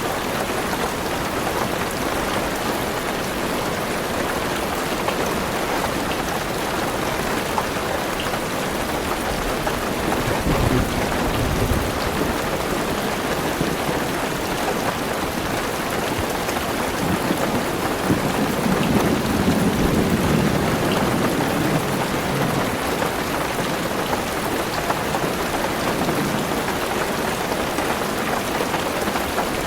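Heavy rain falling steadily on a car's roof and windows, heard from inside the car, with low thunder rumbling about a third of the way through and again, louder and longer, just past the middle.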